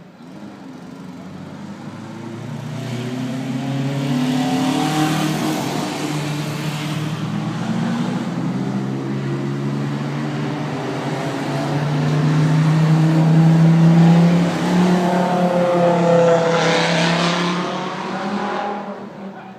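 Old cars' engines running and revving as they drive past, the sound swelling and fading. It is loudest about two-thirds of the way through.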